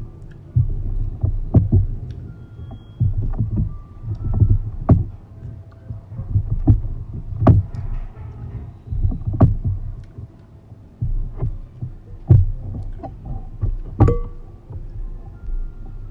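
Close-miked eating: chewing and mouth sounds with low thuds, broken by sharp clicks and knocks at irregular intervals.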